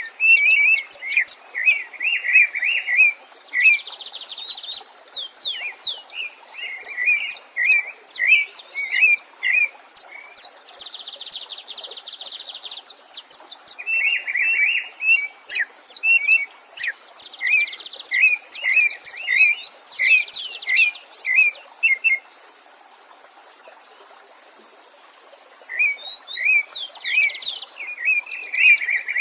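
Several songbirds singing at once: quick repeated whistled phrases mixed with sharp high chirps and short buzzy trills, over a faint steady stream. The singing pauses for a few seconds about three quarters of the way through, then resumes.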